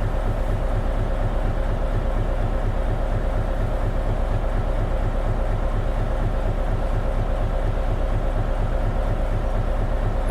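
Isuzu KL-LV280N1 city bus's diesel engine running steadily with an even low pulse and a constant hum.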